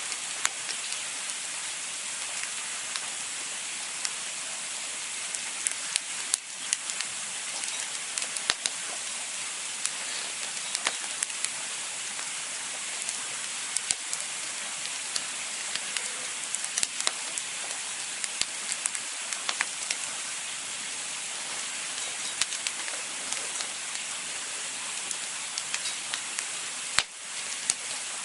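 Wood campfire burning with a steady hiss and frequent irregular crackles and sharp pops, one louder pop near the end.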